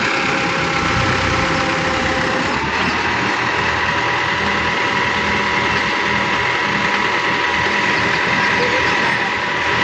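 Heavy vehicle engine running steadily, with a thin whine that steps up in pitch about two and a half seconds in.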